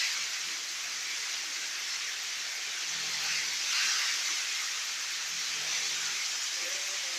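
Heavy rain pouring down in a rainstorm: a steady hiss that swells slightly about four seconds in.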